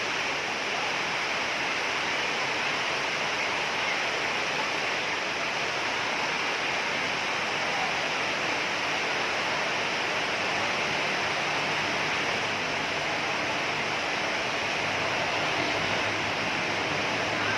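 Heavy rain falling: a steady, even hiss. A faint low hum comes in during the second half.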